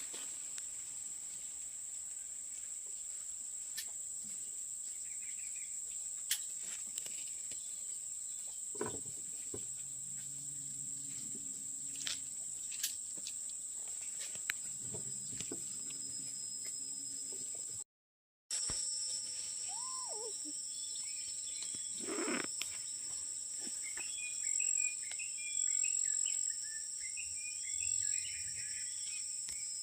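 Steady high-pitched drone of insects such as crickets, with birds chirping in the last few seconds. A short falling cry sounds about twenty seconds in, and a few faint knocks are scattered through.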